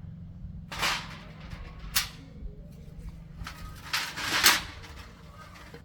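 A small single-cylinder motorcycle engine running steadily at idle, under several sharp metallic clanks: one about a second in, one at two seconds and a cluster around four seconds, the last the loudest.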